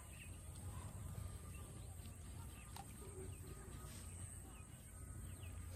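Outdoor ambience of small birds chirping, many short downward-sliding notes, over a steady low rumble.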